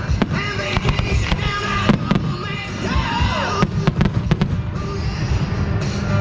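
Aerial fireworks going off in rapid, irregular succession, sharp bangs and crackles over loud music playing with the show.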